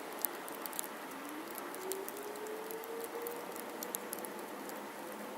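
Falling snow pattering lightly, scattered tiny ticks over a steady soft hiss. A faint distant hum rises in pitch during the first half and then levels off.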